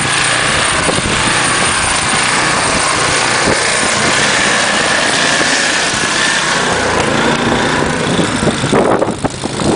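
Snowblower engine running steadily while it throws snow up into the air. A few brief knocks come near the end.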